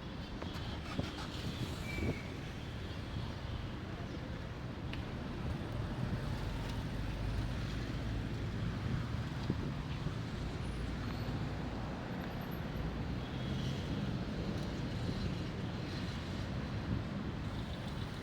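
City street traffic noise: a steady low rumble of passing cars and other vehicles.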